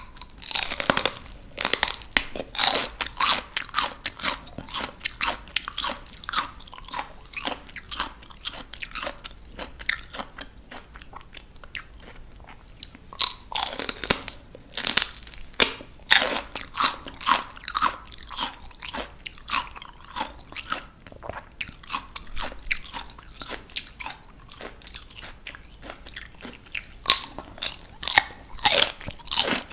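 Close-miked biting and chewing of raw crunchy vegetables: a loud crisp bite near the start, another about halfway, and another near the end, with steady crunchy chewing between them.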